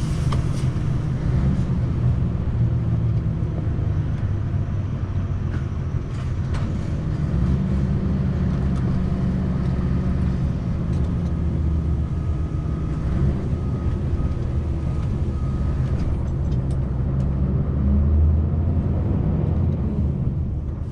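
Scania V8 truck engine running as the lorry drives, a steady low drone whose pitch shifts a few times.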